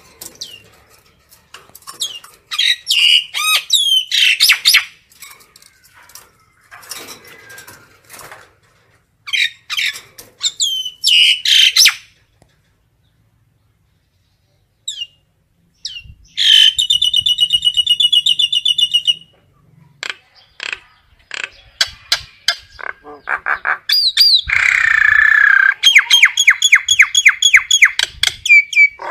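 Common myna calling: a varied series of squawks and gliding whistled notes, a pause of about three seconds, then fast runs of evenly repeated chattering notes.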